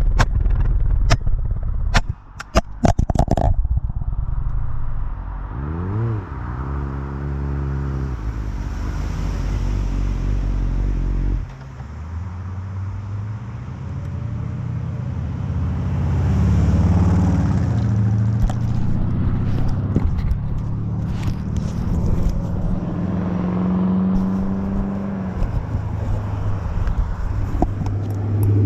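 A fallen GoPro camera clattering and knocking against the road surface for the first few seconds, then vehicle engine sound whose pitch dips and rises several times, from passing traffic or the motorcycle.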